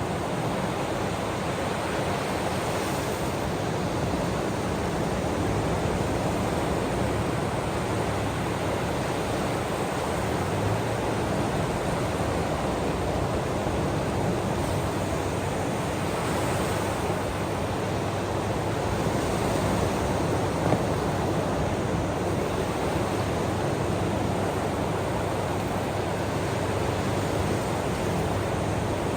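Ocean waves washing on the shore: a steady rushing hiss with a few gentle swells.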